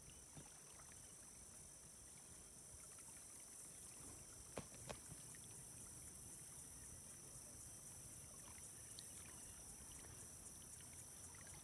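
Faint outdoor ambience: a steady high-pitched drone of insects such as crickets over a low rumble, with two short clicks about four and a half seconds in.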